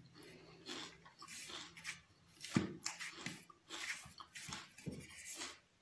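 Close-up mouth sounds of a person eating a spiced chicken and bamboo-shoot curry by hand: wet chewing and lip smacks in short, uneven bursts, roughly one or two a second.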